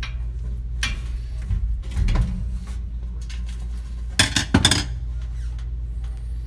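Metal clinks and knocks from tools and parts against the oven's sheet metal as a gas oven igniter is fitted, with a louder cluster of sharp clinks a little past four seconds in, over a steady low hum.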